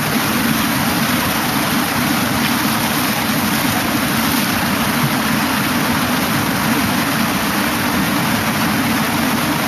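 Mountain stream rushing, a steady loud noise that does not change.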